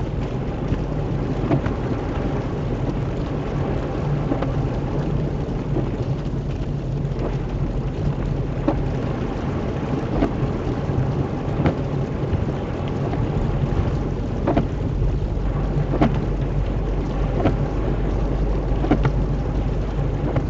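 Steady rain noise over a constant low hum, with a sharp tick repeating about every one and a half seconds.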